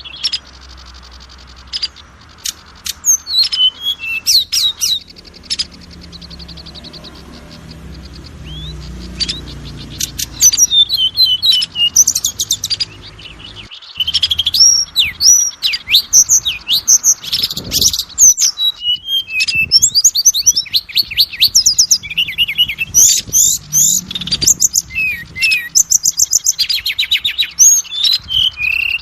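Oriental magpie-robin (kacer) singing a fast, varied song of whistles and rapid trills. The notes are sparse and quieter at first, then come loud and packed from about ten seconds in.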